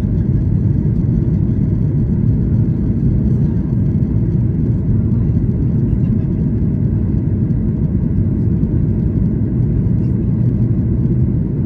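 Steady low roar inside the cabin of a Boeing 737 MAX 8 in flight: the drone of its CFM LEAP-1B engines and the rush of air past the fuselage, unchanging throughout.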